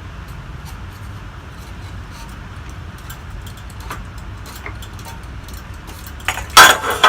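1977 Codep TC series ceiling fan starting to spin, with scattered light ticks over a steady low hum, then a sudden loud clatter near the end: something on the fan has gone wrong.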